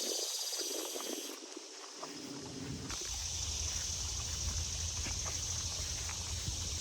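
Outdoor ambience of someone walking: light footsteps on the ground over a steady high insect hiss and a low wind rumble. The sound changes abruptly about three seconds in.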